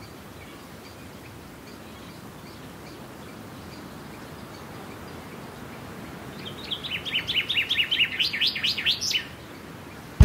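A songbird singing a quick run of about a dozen short down-slurred chirping notes, lasting about three seconds and starting about two-thirds of the way in, over steady low outdoor background noise with a few faint chirps before it.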